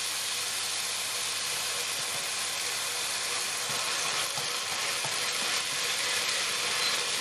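Ground pork sizzling steadily in a wok over high heat, with a ladleful of chili-soy sauce frying into it as it is stirred with chopsticks, a few faint clicks of the chopsticks about halfway through.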